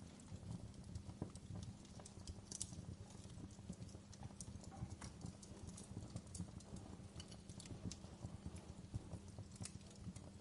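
Wood fire crackling: many small irregular pops and snaps over a low steady rumble.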